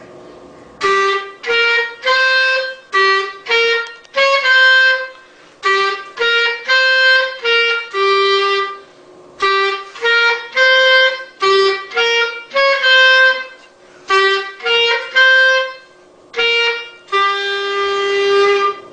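A melody played on a single reedy-sounding instrument: short sustained notes grouped into the same phrase of five or six notes, played four times, each phrase ending on a longer held note.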